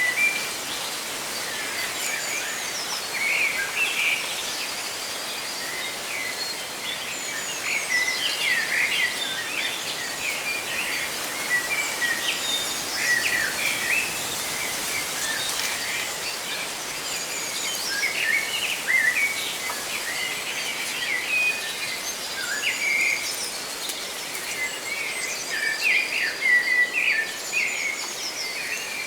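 Many birds chirping and trilling in short calls throughout, over a steady rustle of leaves in the wind.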